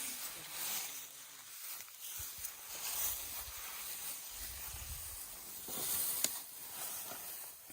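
Elephants handling and chewing leafy branches: rustling and the odd twig snap, with a low rumble about halfway through.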